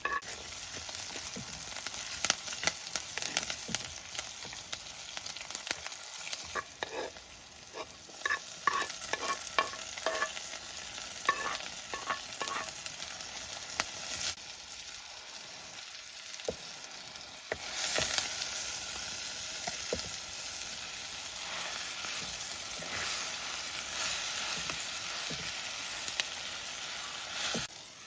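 Food sizzling as it fries in oil in a pan, stirred with a metal spoon that scrapes and clinks against the pan. The sizzle grows louder about two-thirds of the way through.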